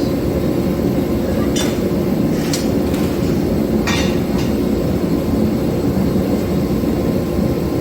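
Forge running with a steady, loud roar, with three light metallic clinks about one and a half, two and a half and four seconds in.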